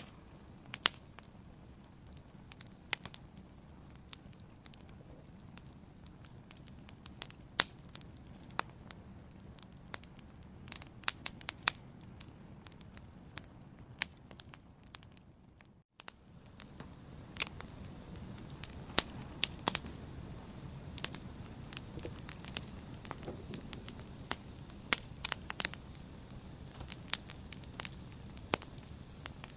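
Wood fire burning in a fireplace, crackling with sharp irregular pops over a low steady hiss. About halfway through the sound briefly cuts out, and afterwards the fire sound is a little louder.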